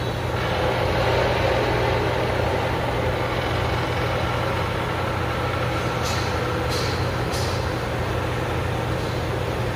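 Heavy diesel engine running steadily, with three short hisses a little past the middle.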